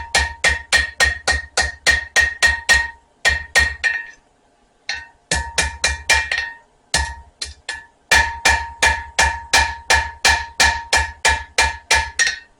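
Blacksmith's hammer striking spring steel on an anvil, about four blows a second, with the anvil ringing after each blow, as the knife blank is forged into an octagonal taper. The blows come in runs broken by short pauses, the longest about four seconds in.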